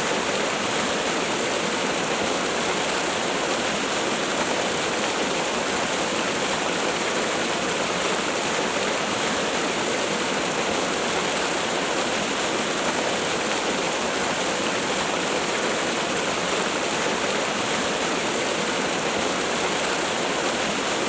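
Waterfall: falling water rushing steadily, an even hiss and roar with no breaks.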